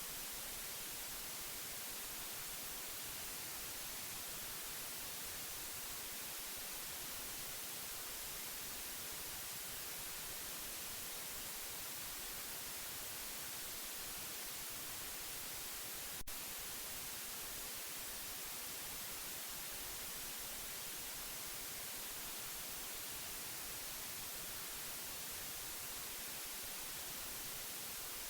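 Steady white noise for soothing a baby to sleep: an even, unbroken hiss, heaviest in the high end. A single brief click sounds a little past halfway.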